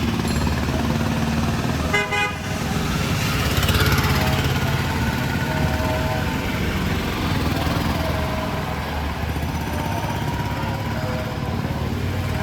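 Busy city street traffic: vehicle and motorcycle engines running with repeated horn toots, and one short honk about two seconds in.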